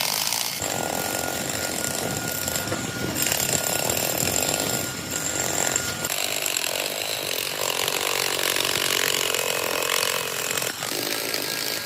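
Metalworking power tool or machine running under load on metal: a steady, rough, rattling noise with a thin high whine over it that drops out about halfway through.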